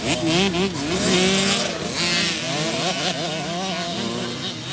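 Small two-stroke motocross bike engines revving up and down repeatedly as the bikes ride the track, with more than one engine heard at once.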